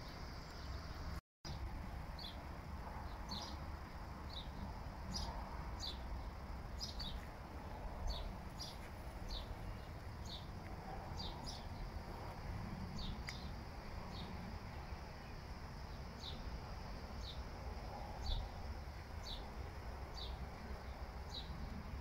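A small bird repeating a short, high chirp about one and a half times a second, over a steady low rumble of outdoor background noise. The sound cuts out completely for a moment just over a second in.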